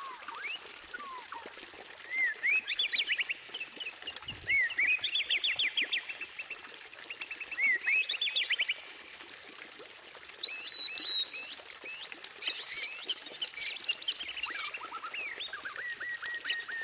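White-rumped shama (murai batu) singing a varied song of whistled phrases: rising whistles, quick runs of sweeping notes and some very high notes. Near the end a fast, even series of repeated notes begins.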